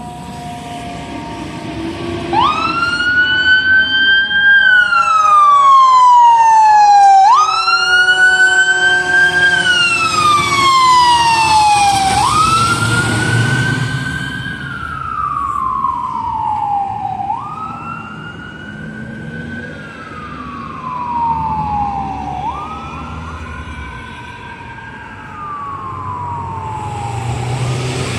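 Fire engine siren wailing: each cycle rises quickly, then falls slowly, repeating about every five seconds, five times in all. It is loudest in the first ten seconds and then fades, with the truck's engine rumble underneath.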